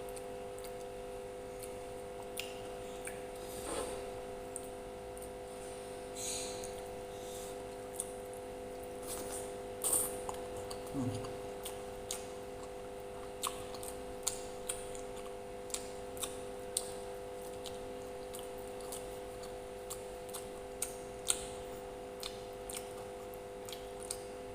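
Close-up eating sounds: scattered clicks, smacks and small squishes of chewing and of a utensil against a plate, over a steady electrical hum.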